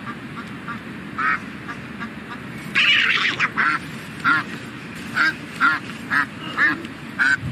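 Domestic duck quacking repeatedly in short calls, with a louder, harsher burst of quacking about three seconds in as a crocodile lunges at it. Steady low background noise runs underneath.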